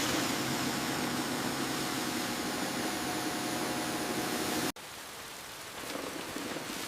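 Steady hissing noise with a faint low hum, which cuts off abruptly about two-thirds of the way through. A quieter, rain-like patter follows and grows a little louder near the end.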